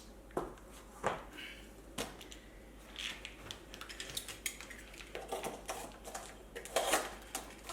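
Workshop handling noise: scattered light clicks and knocks, a few apart early on and a denser run of clatter in the second half, as parts and tools are handled during a tyre change.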